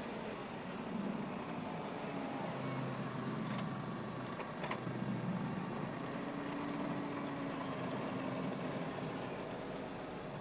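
A car engine running at a steady, low speed, its pitch drifting slightly, with a couple of sharp clicks near the middle.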